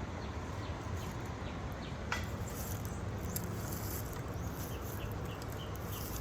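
Woodland ambience: a bird gives a run of short, evenly spaced high chirps, about two a second, in the second half, over a steady hiss and low rumble. There is one sharp click about two seconds in.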